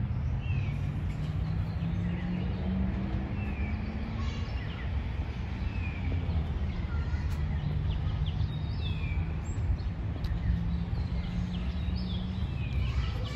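Birds chirping with many short, falling calls scattered throughout, over a steady low background hum.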